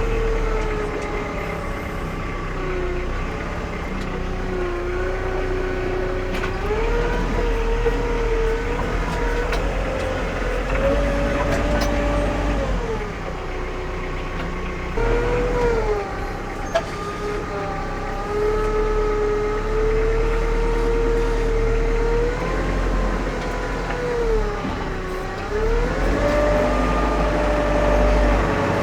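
An engine running under heavy, changing load, its pitch sagging and recovering several times as it lugs. This is a powered attempt to force the tire bead off the rusty rim.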